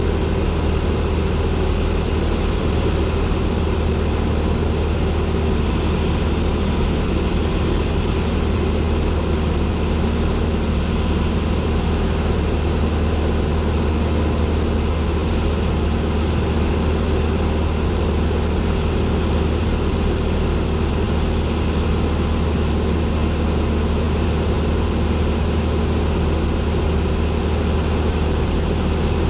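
Cessna 172N's four-cylinder Lycoming engine and propeller running at a steady, unchanging power, heard as a loud low drone inside the cockpit.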